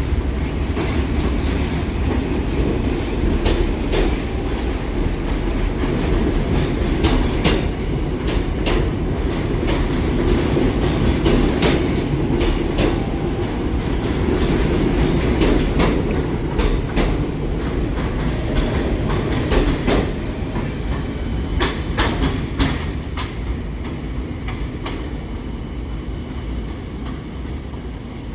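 New York City subway train running on the rails, a steady rumble with wheels clicking over rail joints. It fades a little near the end.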